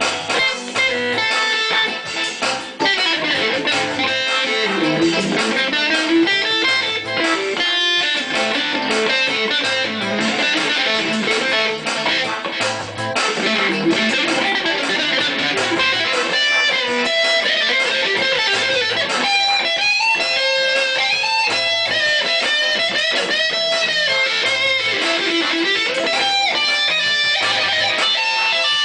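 Electric guitar music: a lead line with notes bent up and down in pitch, playing without a break.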